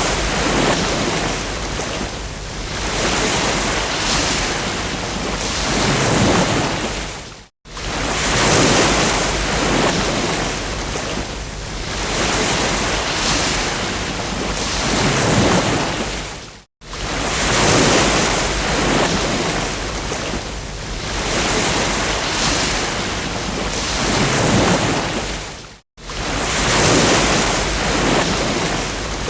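Ocean waves breaking and washing up a beach, the surf swelling and easing every couple of seconds. The sound cuts out completely for a split second three times, about nine seconds apart, as a short recording loops.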